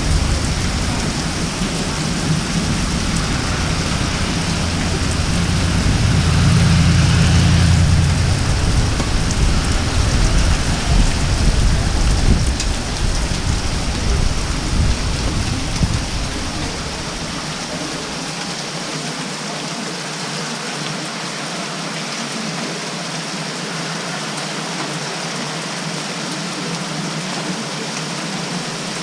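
Heavy thunderstorm rain pouring steadily, with a long roll of thunder in the first half that is loudest about six to eight seconds in and fades out by about sixteen seconds.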